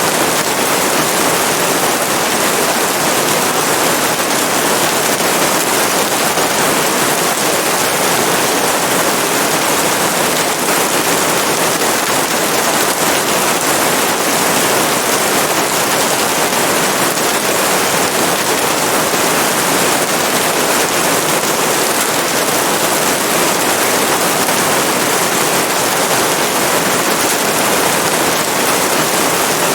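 Steady rain: a loud, dense, even hiss of falling drops that does not change in level.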